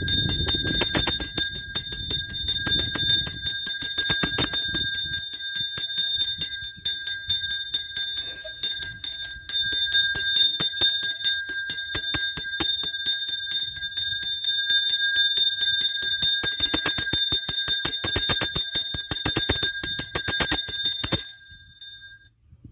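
Temple puja bell rung rapidly and continuously, a bright ringing made of many quick strikes, which stops abruptly near the end.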